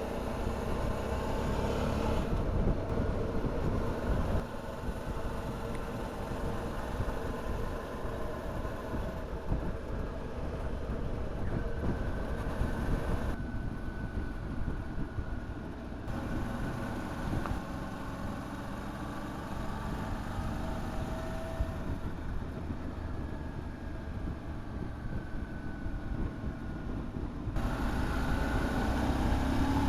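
Motorcycle engine running on the move with heavy wind rush. Its pitch rises and falls as the bike accelerates and eases off, climbing steeply near the end.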